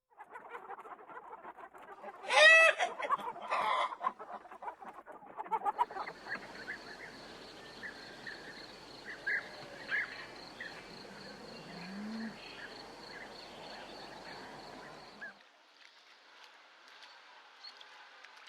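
Poultry clucking and calling in a string of short clips, with one loud call about two and a half seconds in and scattered short chirps after.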